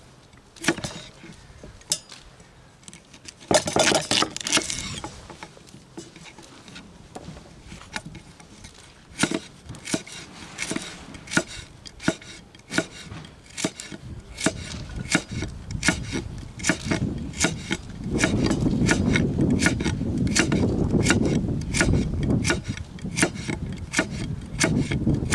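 A knife chopping vegetables on a wooden cutting board, with a run of sharp knocks that settles into about two cuts a second, and a short scrape about four seconds in. A steady low rushing noise lies underneath during the last several seconds.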